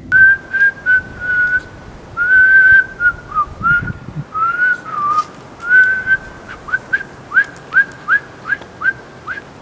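A person whistling: a few held notes and short slides, then a run of quick, repeated rising chirps, about two or three a second, like a call to summon someone.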